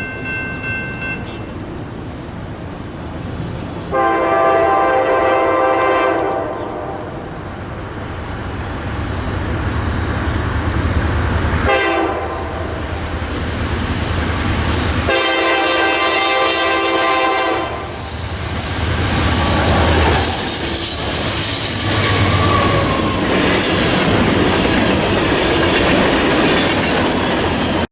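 Locomotive horn sounding two long blasts about ten seconds apart over the steady rumble and wheel clatter of a passing train.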